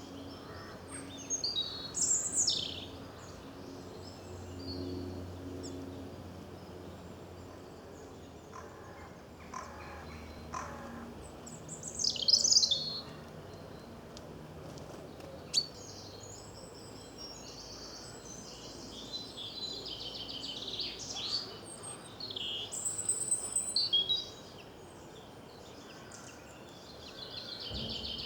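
Small wild birds singing and chirping: separate phrases of quick, falling whistled notes, the loudest about two seconds and twelve seconds in, with a busier stretch of calls later on.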